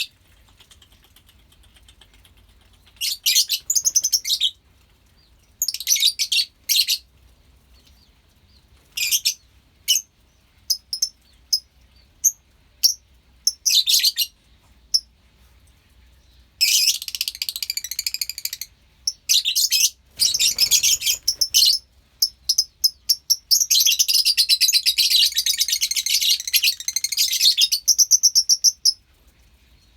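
A colony of lovebirds chirping in shrill, broken bursts, with a long stretch of dense, continuous chattering in the last third.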